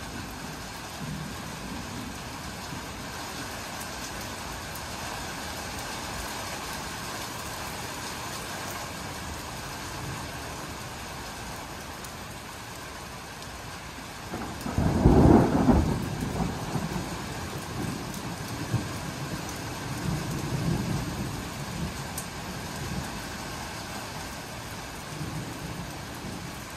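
Steady rain falling, with one loud thunderclap a little past halfway that rumbles on for several seconds.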